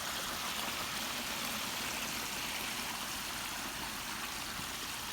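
Water from a backyard pondless waterfall splashing and trickling steadily over rocks.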